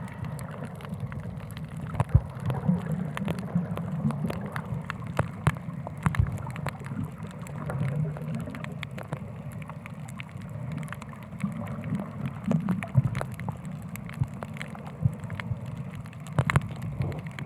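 Water sloshing and gurgling, with many scattered sharp clicks and crackles over a steady low rumble.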